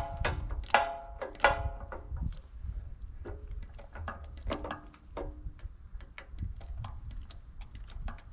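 Steel parts and tools clanking together: a series of ringing metal strikes, three bright ones in the first two seconds, then lighter clinks, over a low rumble.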